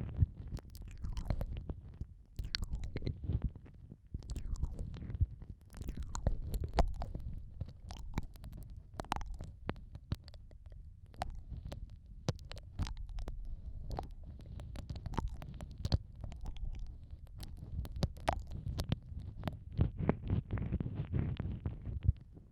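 ASMR ear-eating mouth sounds made right at the microphone: many soft, wet clicks and smacks over a low, muffled rumble, rising and falling in gentle swells.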